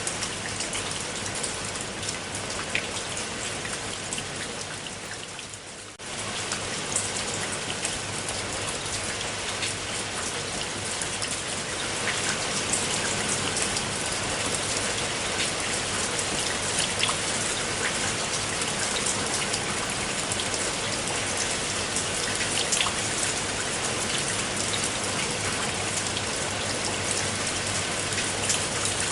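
Steady rain with many separate drops striking close by. Its level fades about four to six seconds in, then comes back suddenly.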